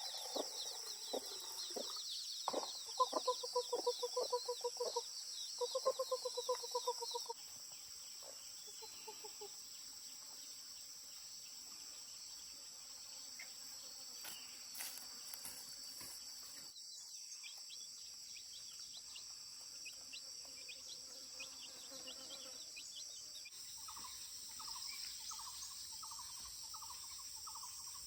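Farmyard ambience: chickens clucking in quick pulsed calls for the first seven seconds over steady insect chirring. Near the end a call repeats about three times a second.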